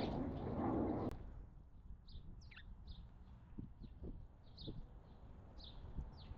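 Small songbirds chirping: short high chirps spaced irregularly, a few sliding steeply downward. A rush of noise at the start cuts off abruptly about a second in.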